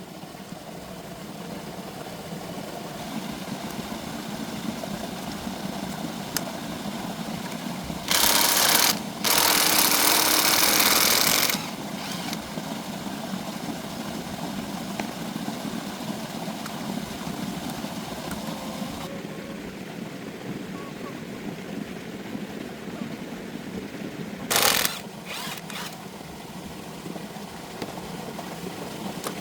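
A small engine running steadily, with loud bursts of hissing noise about eight seconds in, again from about nine to eleven and a half seconds, and briefly near the end.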